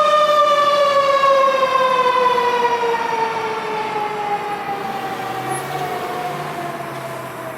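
Fire engine siren that peaks just as it begins, then winds slowly down in one long falling tone, growing fainter.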